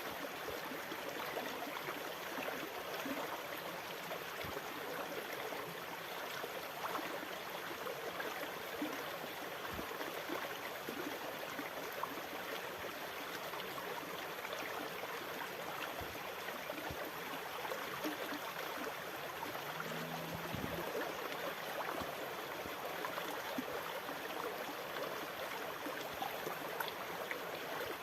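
Steady wash of moving water, trickling and gurgling without distinct wave surges. A faint low hum sounds briefly about twenty seconds in.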